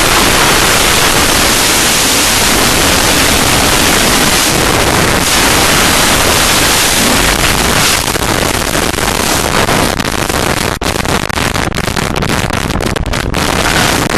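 Loud wind blasting over a helmet camera's microphone during a wingsuit flight, a constant rushing hiss that starts to flutter and break up in quick dips about halfway through.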